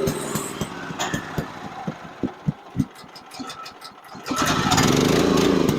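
Small gasoline engine of a portable sawmill idling roughly with slow, uneven low thumps, then revving up loudly about four seconds in and easing back down.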